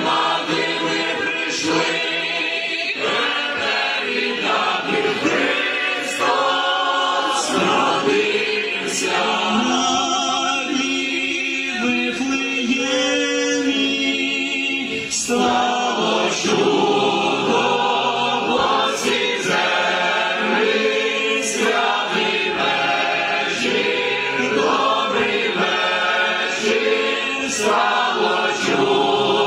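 Choir singing a Ukrainian Christmas carol (koliadka), several voices together in a steady, continuous song.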